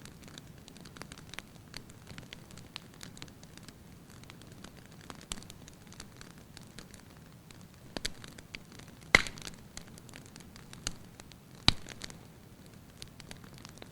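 Firewood burning in a fireplace: a soft steady hiss of flame with light, irregular crackling and two louder sharp pops, about nine and twelve seconds in.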